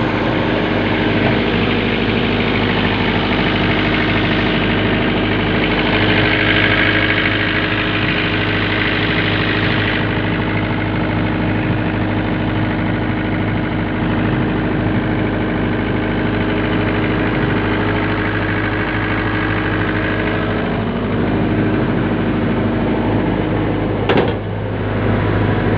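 Isuzu C240 four-cylinder diesel engine idling steadily, with one sharp click near the end.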